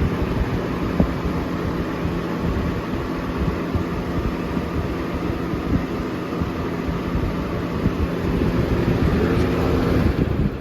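Air King 9723 box fan running fast: a steady rush of air over a low motor hum. Right at the end the sound falls away suddenly as the fan is switched off.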